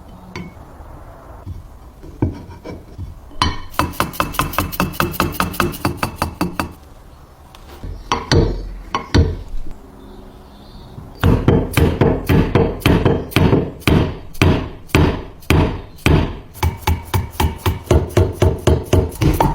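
Rapid runs of sharp taps or knocks, about four or five a second, in bursts separated by short pauses.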